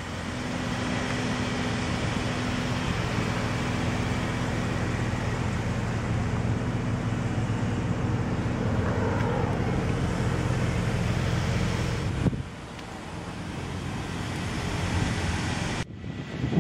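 2011 Hyundai Sonata Hybrid's 2.4-litre four-cylinder engine idling steadily, started on its own by the hybrid system to keep the battery charged. The sound drops abruptly about twelve seconds in.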